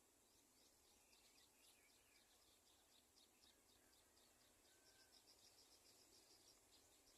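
Faint, rapid series of short high chirps, about four a second, from garden sunbird nestlings begging for food.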